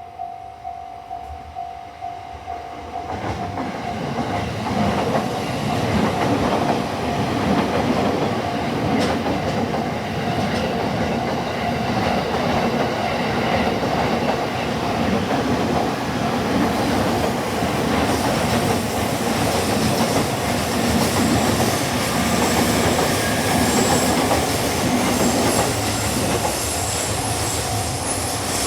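Railway level-crossing warning bell ringing in quick, regular pulses. About three seconds in, an electric commuter train starts passing close by, and its rolling noise builds and stays loud over the bell.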